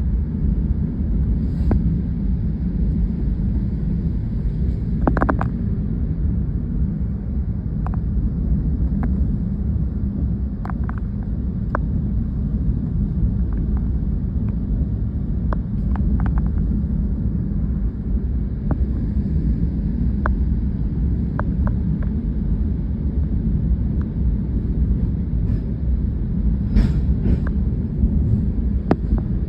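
Steady low rumble with a few faint, brief clicks over it.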